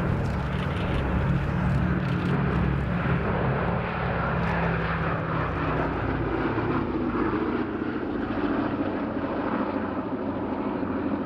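Boeing B-17G bomber's four Wright Cyclone radial engines droning steadily as it flies overhead. About halfway through, the tone of the drone shifts higher and the deepest part fades.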